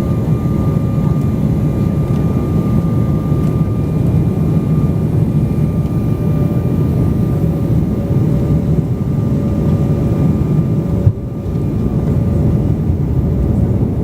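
Aircraft cabin noise in flight: a steady low rush of engines and airflow with a faint steady hum on top, heard from inside the cabin. The level dips briefly about eleven seconds in.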